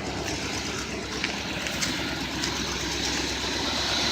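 1992 GMC Sierra pickup's engine idling steadily, just started after a loose starter motor cable was tightened.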